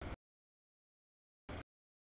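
Two brief snatches of passing freight-train noise, one right at the start and one about a second and a half in. Each cuts in and out abruptly with dead silence between, the sign of the camera's audio dropping out.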